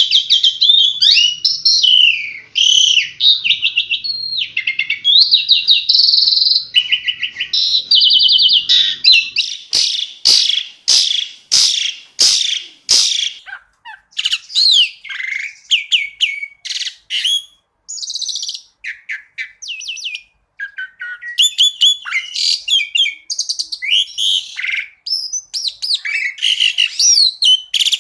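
Asian pied starling (jalak suren) singing a fast, varied song of whistles, trills and chattering phrases with mimicked notes. A run of sharp clicking notes comes about ten seconds in.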